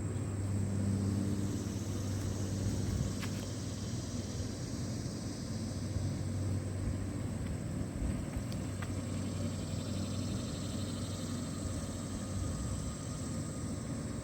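Steady low rumble of distant traffic, with a faint high hiss and a few light clicks over it.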